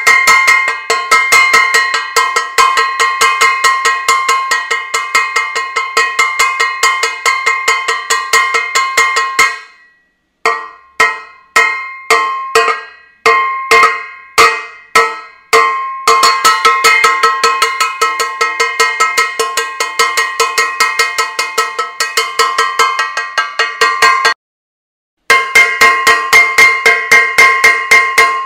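Metal saucepan banged repeatedly, ringing clangs coming several a second. About a third of the way in they slow to separate strikes for a few seconds, then speed up again, with a short break near the end.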